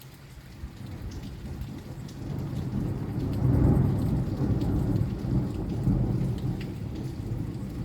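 Thunder rolling over steady rain: a low rumble builds from about a second in, is loudest near the middle, then slowly fades, with scattered raindrop ticks throughout.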